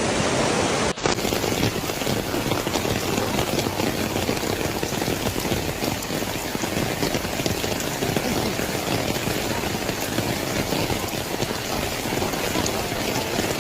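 Heavy rain falling steadily, with a brief dropout about a second in.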